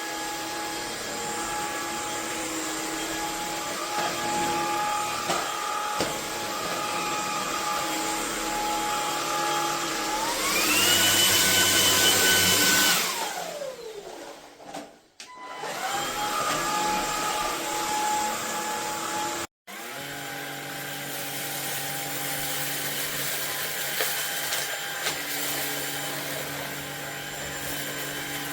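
MONSGA cordless stick vacuum's brushless motor running with a steady whine. About ten seconds in it speeds up to a higher, louder pitch, then winds down and stops, and starts up again a couple of seconds later. Later the sound breaks off for an instant and carries on as a steadier, lower-pitched run.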